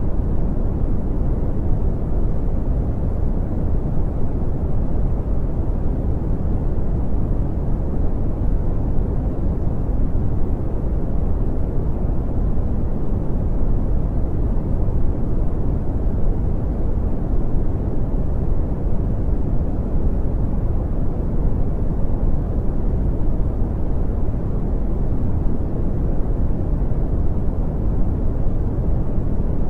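Brown noise: a steady, deep rumbling hiss, strongest in the low end and fading toward the treble, with no change or events.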